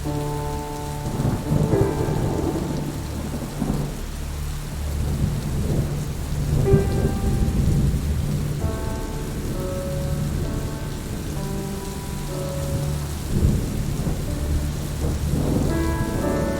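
Steady heavy rain with thunder rumbling several times, loudest about two, seven and thirteen seconds in. Under it runs soft ambient music of long held notes that change every few seconds.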